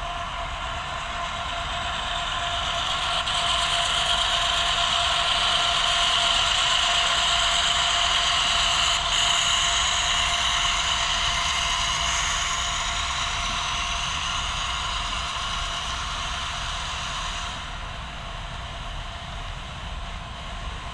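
HO scale model train running past: motor hum and wheels on the rails, swelling as it nears, staying loud, then easing off near the end.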